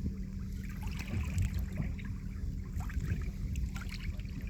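Small waves lapping and splashing irregularly at a lake's edge, over a steady low rumble of wind.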